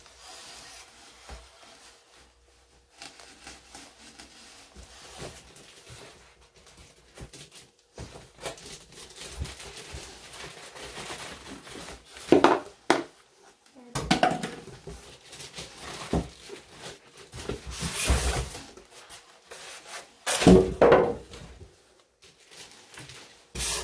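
Packaging being handled and pulled apart during an unboxing: rustling, crinkling and scraping, with a few louder knocks and thumps about halfway through and near the end.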